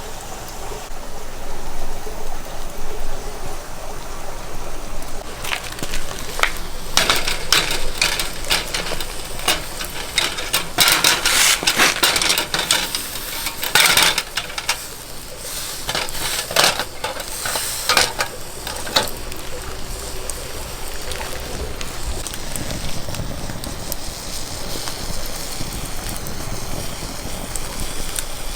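Cooking over a wood fire: a steady crackle and hiss, with a dense run of sharp clicks and metal scraping in the middle.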